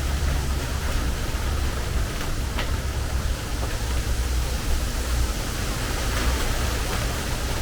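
Steady rain on a metal porch roof: an even hiss with a few sharper drops, the clearest about two and a half seconds in, over a low steady rumble.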